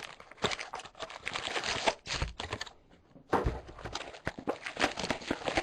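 A trading-card box being opened by hand: plastic wrap crinkling and tearing and cardboard rustling, in two spells of rapid clicks and rustles with a short pause about halfway through.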